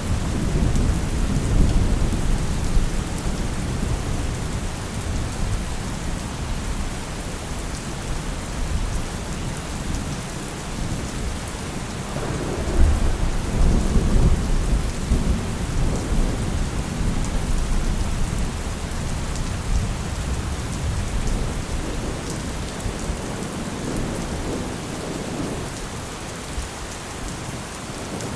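Thunderstorm: steady rain hissing, with rolling thunder. Low rumbles swell near the start and again about twelve seconds in.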